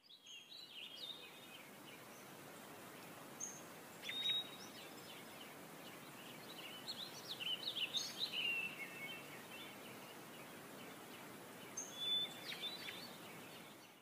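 Small birds chirping and trilling in scattered short bursts over a faint, steady hiss of outdoor ambience.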